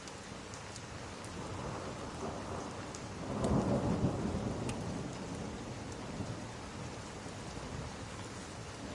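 Steady rain with a roll of thunder that builds a couple of seconds in, peaks near the middle and slowly fades, and a few faint sharp ticks over the rain.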